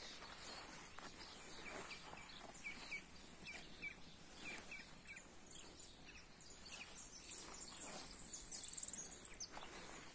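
Small birds chirping faintly, with many short repeated notes and a high, fast trill near the end, over quiet outdoor background noise.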